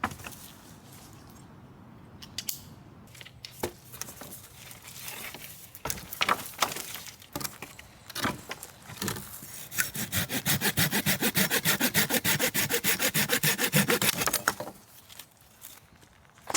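Silky Gomboy folding saw cutting a piece of firewood. It starts with a few uneven scraping strokes and knocks, then settles into a fast, steady back-and-forth of about five strokes a second for roughly four seconds, which stops suddenly.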